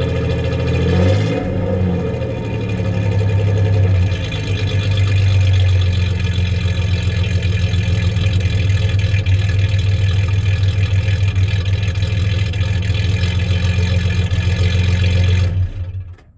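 1993 Ford Ranger's 3.0 V6 idling with a misfire in one cylinder. Its pitch wavers briefly about a second in, then holds steady, and the engine stops near the end.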